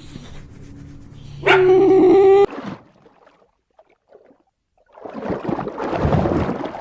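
A dog giving one loud, drawn-out whining yelp about a second and a half in. A short quiet follows, then a rough noisy sound starts about five seconds in.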